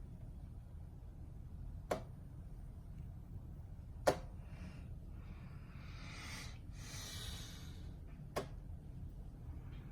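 Ceiling fan running with a steady low hum. Three sharp clicks sound about two, four and eight and a half seconds in, and there is a brief rushing hiss a little past the middle.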